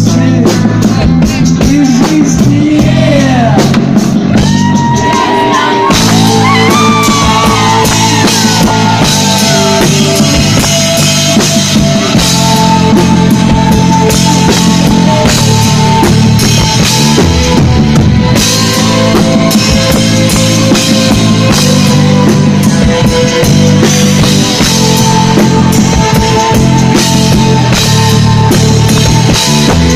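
Rock band playing live at loud, steady volume: drum kit, guitars and bass. In the first several seconds a lead line slides up and down in pitch, and after that held notes ring over the beat.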